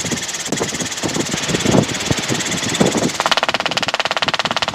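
Robinson R22 helicopter in forward flight, its engine and rotor running steadily as it picks up speed. From about three seconds in, an evenly pulsing buzz joins the steady noise.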